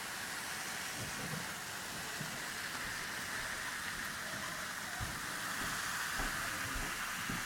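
Baking soda and vinegar fizzing in a homemade volcano: a steady crackling hiss of bubbles, with a few faint soft ticks.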